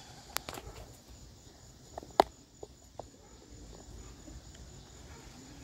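Quiet evening outdoor ambience with crickets chirping in a faint, steady high drone, broken by a few sharp clicks or taps, the loudest about two seconds in.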